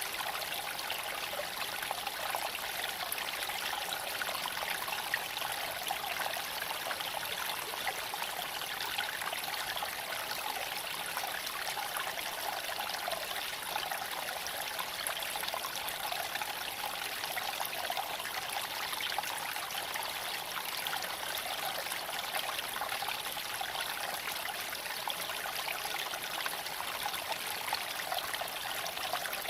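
Steady rushing noise inside a moving Tesla Cybertruck: road and wind noise, an even hiss with no engine note.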